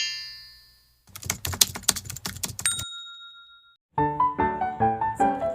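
Edited intro sound effects: a chime fading out, then about two seconds of rapid keyboard-typing clicks ending in a bell-like ding. After a second of silence, background music with a plucked melody starts about four seconds in.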